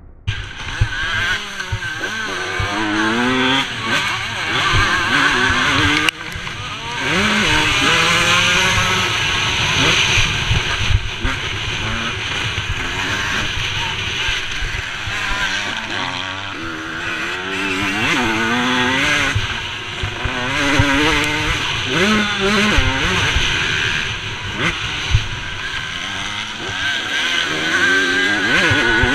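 Motocross dirt bike engine revving hard, its pitch repeatedly climbing and then dropping as the rider accelerates and shifts or backs off, heard from a helmet-mounted camera over a constant rush of noise.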